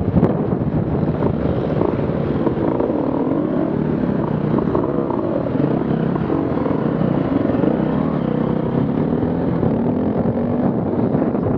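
Off-road vehicle engines revving, their pitch rising and falling over a steady rumble.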